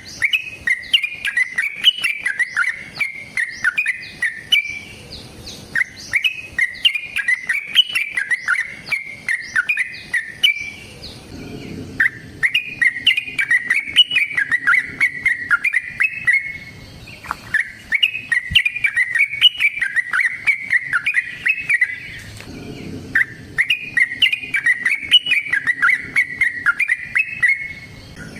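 Yellow-vented bulbul (cucak trucuk) singing long, rapid, bubbly chattering phrases, each about five seconds long, repeated with short pauses between them.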